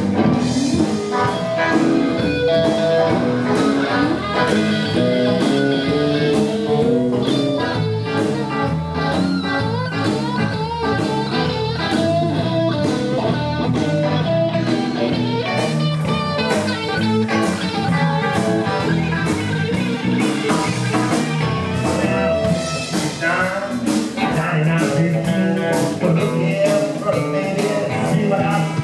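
A live band playing a blues tune, led by guitar over a drum beat, during a sound check.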